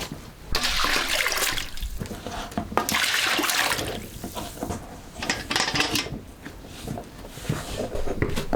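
Two rushes of water being poured or sloshed, each about a second long, with scattered knocks and clatter around them.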